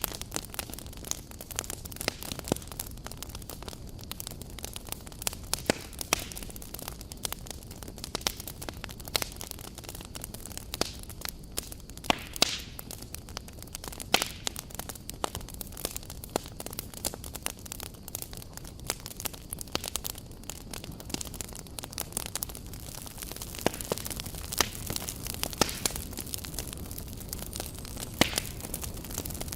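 Wood campfire burning, with irregular crackles and sharp pops over a steady low rush of flame.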